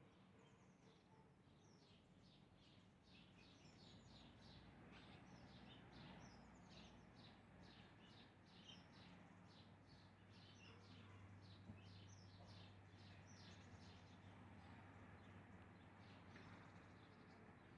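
Small caged birds, the title's love birds, chirping faintly: a long run of quick, high, falling chirps, about three or four a second, that dies away near the end, over a faint steady low hum.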